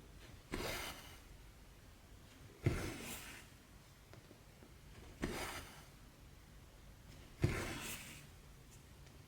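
Cotton floss pulled through 14-count cross-stitch fabric, four stitches about two seconds apart. Each starts with a sharp tick and trails off in a short rasp as the thread is drawn through the cloth.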